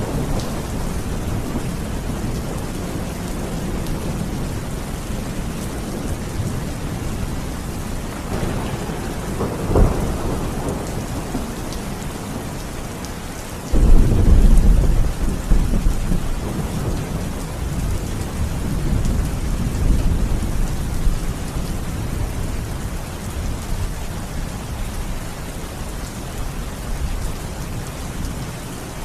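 Steady rain falling, with thunder: a short rumble about ten seconds in, then a sudden loud, deep thunderclap about halfway through that rolls on and fades over several seconds.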